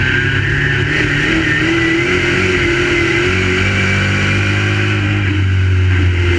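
Several crate late model race cars' V8 engines running on the track at speed, their mingled pitches slowly rising and falling.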